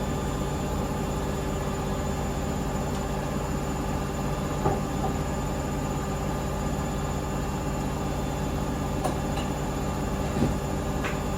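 Hoover Link washing machine on its 1400 rpm spin, running steadily at full speed: a constant rumble and hum with a couple of faint knocks.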